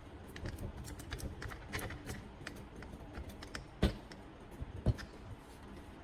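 Scattered small clicks and taps of handling objects and tools, with two louder knocks about four and five seconds in.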